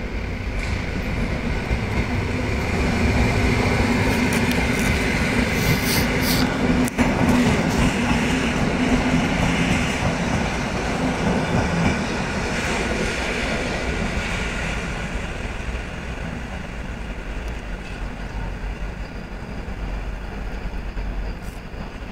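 Electric passenger train running past on the rails. The rumble of wheels on track builds over the first few seconds and has a clickety-clack over the rail joints, with brief high wheel squeals about six seconds in. It is loudest in the first half, then fades as the train moves away.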